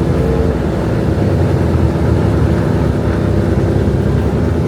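A car engine running steadily at a constant speed, its sound mostly a low rumble.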